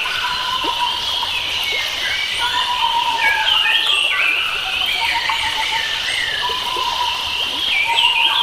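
Wild forest birds singing: a warbling phrase of quick up-and-down notes comes again about every four to five seconds, with other chirps between, over a steady high-pitched background tone and the even rush of a stream.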